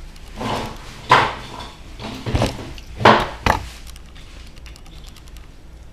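Small die-cast toy cars being handled and set down: a handful of sharp clacks and knocks in the first three and a half seconds, then quiet handling.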